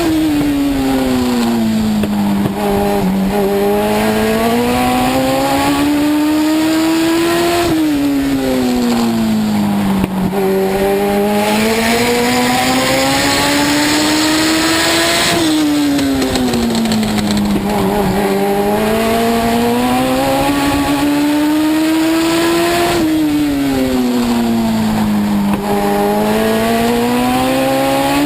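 Legends race car's Yamaha four-cylinder motorcycle engine running hard around a short oval. Its pitch drops sharply as the driver lifts for each turn, then climbs steadily down the next straight, repeating about every seven and a half seconds.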